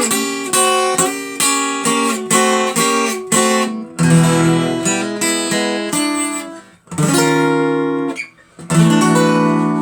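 Acoustic guitar strummed in a steady rhythm of about two strokes a second, then a few longer held chords and a final chord left ringing: the end of a song's accompaniment.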